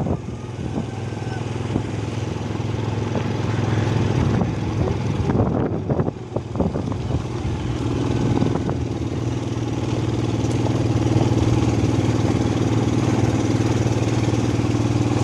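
Motorcycle engine running steadily while riding, with a short dip and a few knocks about five to six seconds in, after which a higher, even engine tone joins.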